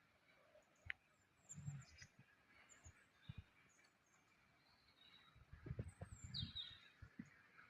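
Faint songbirds chirping in short scattered calls, including a quick falling chirp past the middle, over a soft steady hiss of a nearby stream. A few low thumps come about five to six seconds in.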